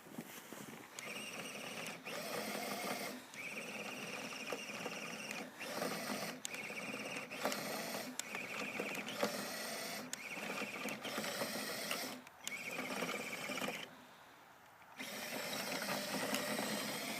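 Electric motor and gearbox of a Tamiya CR01 RC scale crawler whining in repeated throttle bursts of about a second each, with short pauses between, as the truck labours through deep snow. There is a longer pause of about a second near the end.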